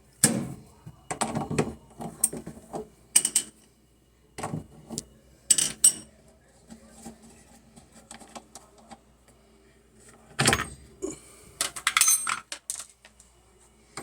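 Irregular metallic clinks and knocks, as of small metal objects being handled and set down, with a quick run of rattling clicks near the end.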